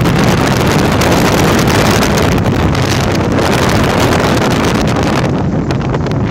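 Honda Tornado single-cylinder motorcycle engine, given as 299cc, running steadily at road speed under heavy wind noise on the microphone.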